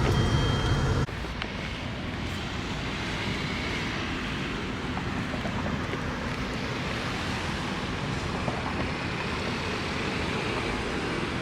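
Steady road and traffic noise. A heavier low rumble cuts off suddenly about a second in, leaving an even noisy hum.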